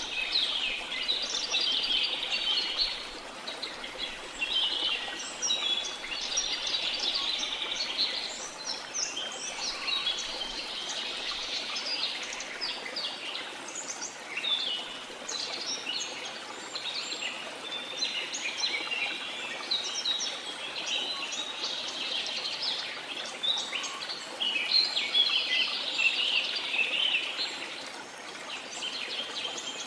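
A dense chorus of many birds chirping and calling at once, the calls overlapping and never stopping. A faint steady hiss of running water sits underneath.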